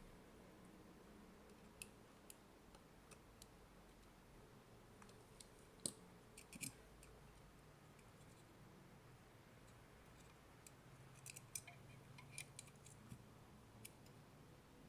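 Faint, scattered clicks and taps from handling the plastic casing of an opened AC adapter, with one sharper click about six seconds in and a run of clicks between about eleven and fourteen seconds.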